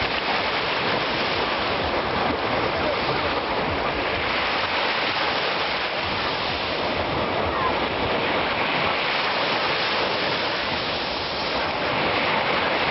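Sea waves washing onto the shore in a continuous rush of surf that swells and eases slightly.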